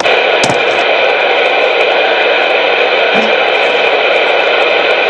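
CB radio receiver putting out loud, steady static hiss, which starts abruptly as the last transmission ends. There is a faint click about half a second in.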